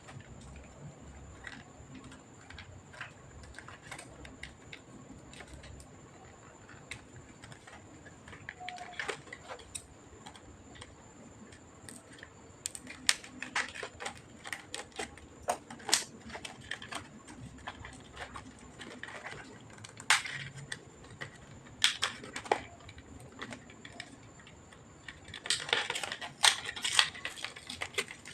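Scattered sharp clicks and taps of small plastic and metal computer parts and tools being handled while the all-in-one PC is taken apart. They come sparsely at first, more often from about halfway, and in a quick run of clicks near the end, over a faint steady high tone.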